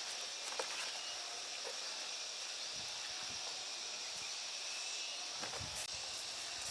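Outdoor rural ambience: a steady high insect drone with faint rustling and a few small clicks.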